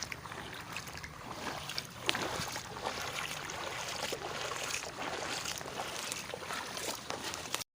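Floodwater splashing and lapping, with many small irregular splashes over a low steady hum; the sound cuts off abruptly near the end.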